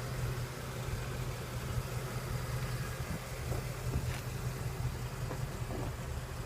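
A 2015 Ford Mustang GT's 5.0-litre V8 idling steadily, a low even hum.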